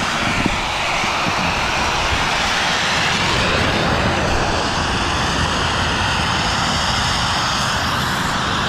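Steady roar of wind and snowmaking guns while riding a snowboard downhill under the snowmakers, with faint high tones joining about halfway through.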